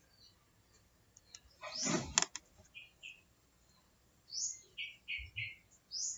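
Small birds chirping: several short chirps and quick rising calls, a few in a row. About two seconds in there is a brief louder noise that ends with a couple of clicks.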